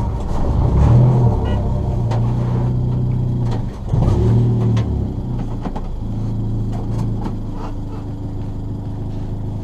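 Ford Fiesta ST rally car engine heard from inside the cabin. It idles, rises briefly twice as it is blipped or driven forward, then settles to a steady idle, with light clicks and rattles.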